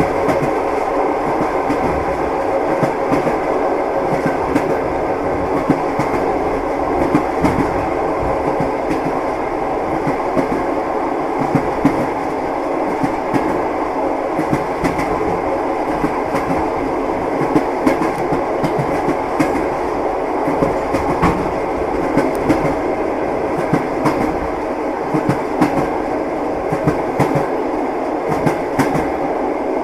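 A train running at a steady pace, a continuous rumble with the wheels clacking over the rail joints.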